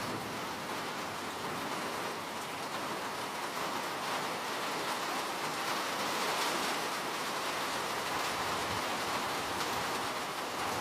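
Steady rain falling, an even hiss of many drops with fine pattering.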